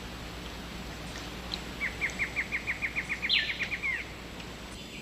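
A bird's rapid trill of about a dozen short upswept notes, roughly five a second, starting about two seconds in and lasting about two seconds, over a steady hiss of rainforest ambience.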